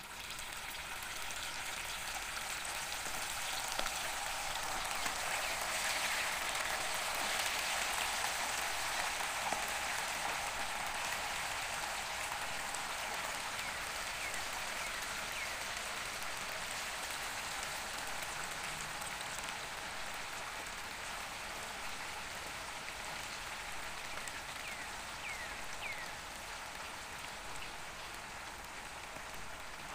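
Chicken pieces deep-frying in hot oil over medium-high heat: a steady crackling sizzle that grows louder over the first several seconds as more pieces go into the oil, then holds.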